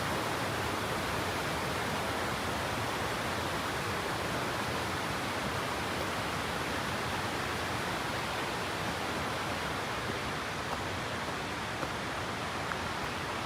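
Steady rush of running water, an even hiss with no rhythm, with a few faint ticks near the end.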